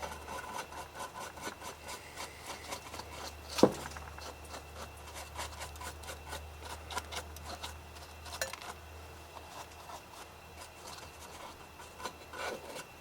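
A brush sweeping a machine table clean: repeated irregular scratchy strokes, with a sharp knock about three and a half seconds in and a lighter one a few seconds later.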